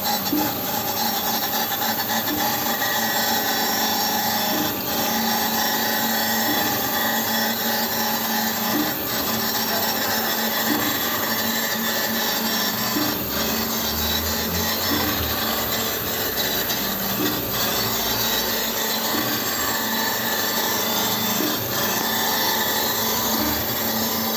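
Surface grinder resurfacing a Volvo six-cylinder truck cylinder head: a steady grinding rub of the wheel across the head's face over a constant machine hum, with a faint regular tick about every two seconds.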